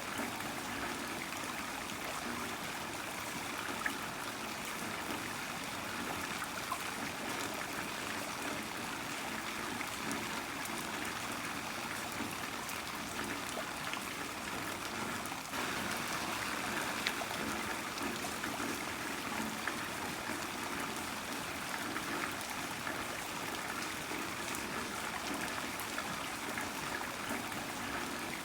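Heavy rain falling steadily, with a running, trickling water sound and scattered sharp drop ticks; the level steps up slightly about fifteen seconds in.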